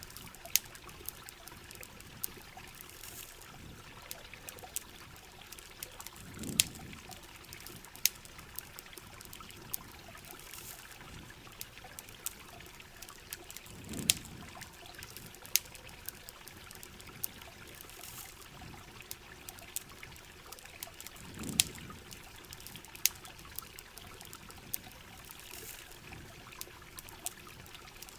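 Steady heavy rain falling, with a campfire crackling in frequent sharp pops. A soft low swell comes and goes about every seven seconds.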